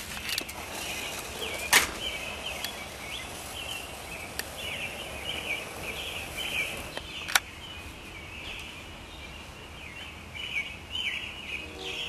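Birds singing: a continuous stream of short, high chirping notes repeating one after another. Two sharp clicks cut through, about two and seven seconds in.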